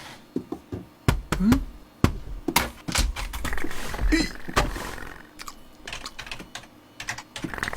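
Quick, irregular clicks and taps like typing on a keyboard, with a few short vocal sounds that rise or arch in pitch mixed in.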